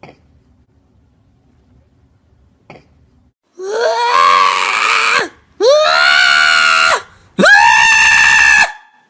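A cat yowling three times in a row, each call long, loud and drawn out, sliding down in pitch at its end. The calls start about three and a half seconds in, after a quiet stretch.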